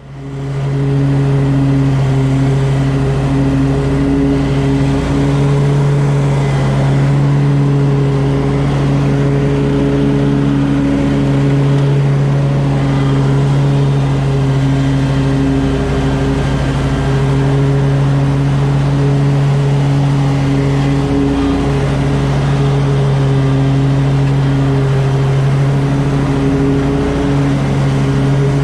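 Toro Z Master 4000 zero-turn mower running steadily while mowing grass, a loud, even engine drone with a strong low hum.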